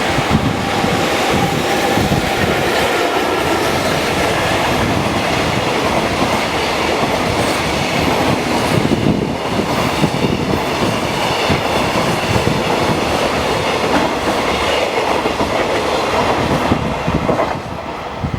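A freight train of Koki container flatcars running through at speed, its wheels clacking over the rail joints. The noise dips slightly near the end.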